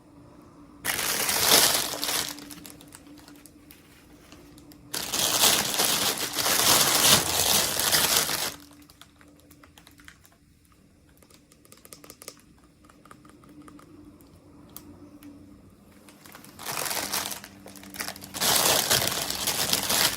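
Packaging crinkling as it is handled and opened, in four loud bursts with quieter rustling and light clicks between.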